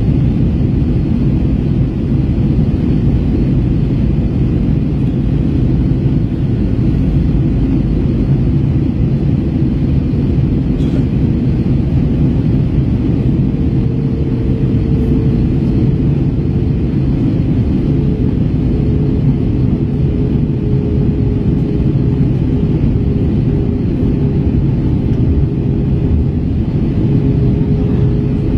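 Cabin noise inside an Airbus A321 airliner in descent: a loud, even rumble of the engines and airflow. A faint steady hum joins it about halfway through.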